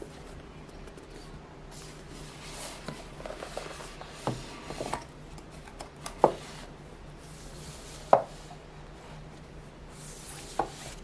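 Household handling sounds: rubbing and rustling, broken by four sharp knocks about two seconds apart, the middle two the loudest.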